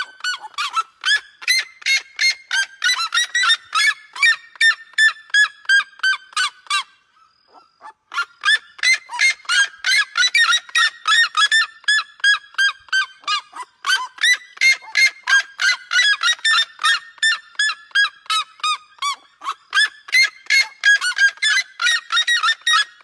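Seriemas giving their loud yelping call: long runs of sharp, rapidly repeated notes, about three to four a second, falling in pitch across each run. There is a brief pause about seven seconds in, then the calling starts again.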